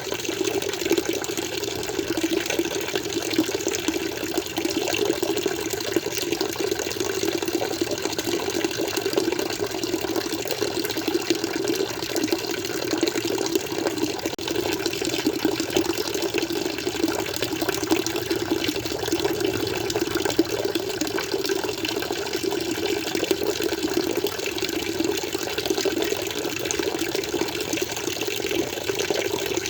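Water flowing steadily, an even splashing rush with no change in level.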